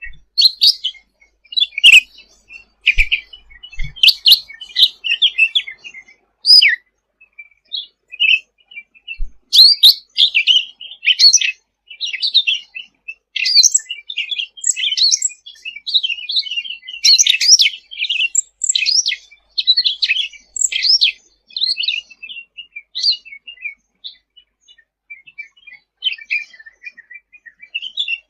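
Cucak ranting singing energetically: long runs of rapid, high chirps and trilled notes with short pauses between phrases.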